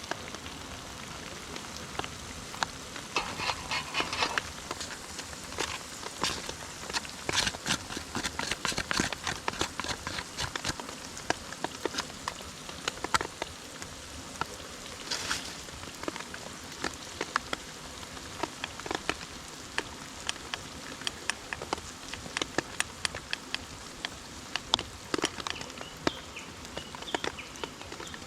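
Rain falling steadily, with many irregular drops ticking sharply, thickest for several seconds near the start.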